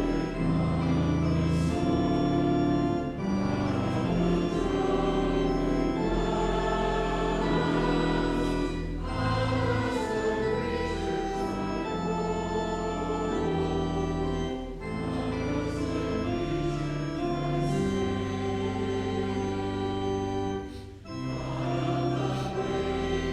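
Organ playing a slow piece in sustained chords, the held notes changing every second or two with a few short breaks between phrases.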